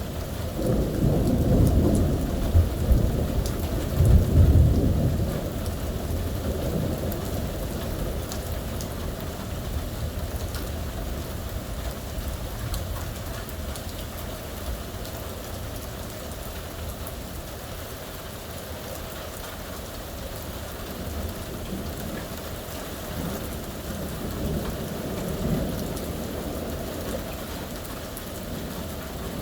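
Steady heavy rain with rolling thunder. The thunder swells over the first few seconds and is loudest about four seconds in, then fades. A fainter rumble comes back near the end.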